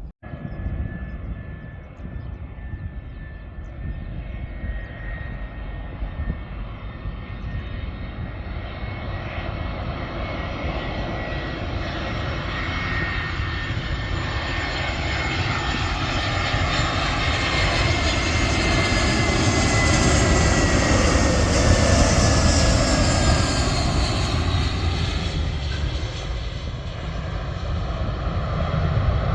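Jet airliner passing by: its engine noise builds steadily, is loudest about three quarters of the way through, and the high engine whine falls in pitch as it goes past, with a deep rumble underneath.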